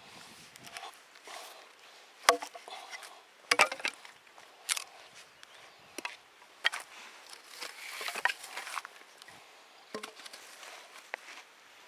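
Axe chopping and splitting firewood: sharp strikes into wood at irregular intervals, about half a dozen, the loudest a little over two and three and a half seconds in, with wood cracking and rustling between blows.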